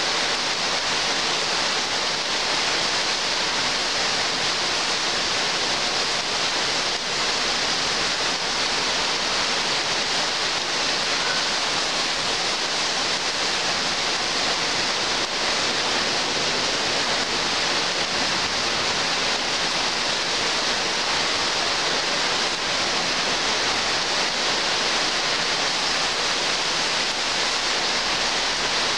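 Heavy rain pouring steadily onto tree foliage: an even, unbroken hiss.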